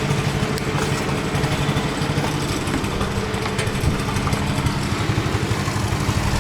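Small river boat's engine running steadily at low speed, an even hum.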